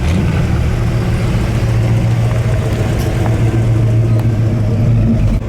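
Arriving car's engine running at low revs with a deep, steady exhaust note; it drops off suddenly near the end.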